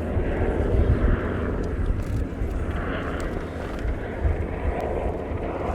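SH-60K Seahawk helicopter hovering: a steady, heavy rotor and turbine rumble with an uneven low beat from the rotor.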